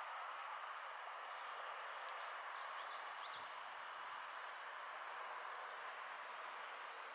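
Steady rushing of strong wind, with a few faint, high, short chirps of small birds that slide downward, about three seconds in and again near the end.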